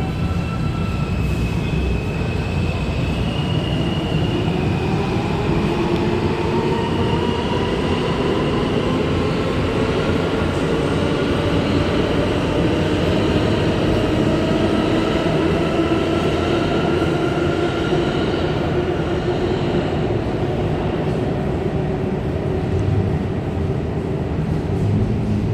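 A large vehicle's steady rumble with a whine whose tones rise slowly in pitch over most of the stretch.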